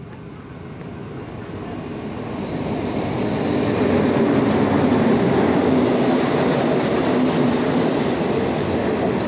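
A State Railway of Thailand diesel locomotive approaches and passes close by at speed, hauling passenger coaches. The rumble swells over the first four seconds, then the coaches roll past with a steady, loud rumble of wheels on the rails.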